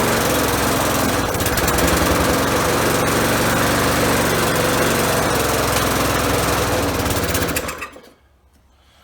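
Lawnmower's small gasoline engine running steadily on a new carburetor with no air filter fitted yet, then stopping near the end, its sound dying away in under a second.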